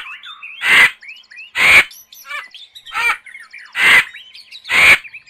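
Vulture giving five harsh, hoarse calls, about one a second, with faint chirping between them.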